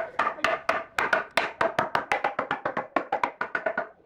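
Fast run of short, hollow wooden knocks, about eight a second, each with the same brief ringing tone, like a wood block being tapped. It pauses for a moment near the end, then starts again.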